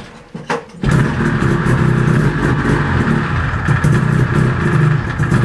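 1973 Arctic Cat Panther snowmobile's two-stroke engine catching about a second in after a pull on the starter and running steadily on a cold start, having trouble drawing fuel.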